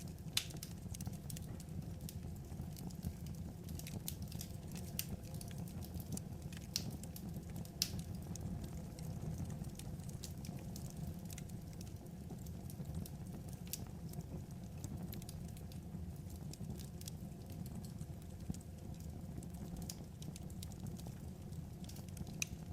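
Wood fire crackling: irregular sharp pops over a steady low rumble of burning logs.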